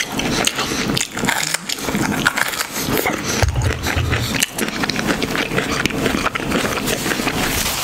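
Close-miked crunching and chewing of a bitten-off piece of raw jalapeño pepper, a run of crisp crackles and wet chews, with a brief low hum about three and a half seconds in.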